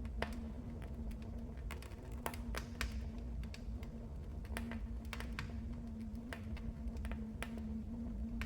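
Wood fire crackling in a fireplace: irregular sharp pops and snaps, several a second at times, over a low steady rumble of the burning fire.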